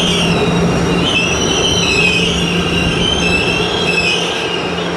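Train wheels squealing against the rails, several high wavering tones over a steady low hum and rumble from the moving train.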